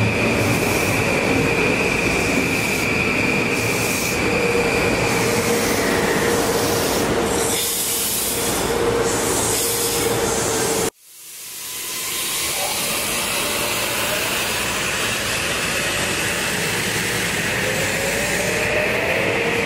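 Metro-North M8 electric commuter train running along the platform: rolling wheel noise with a steady high whine. The sound cuts out abruptly about eleven seconds in and swells back, and near the end a rising whine comes in.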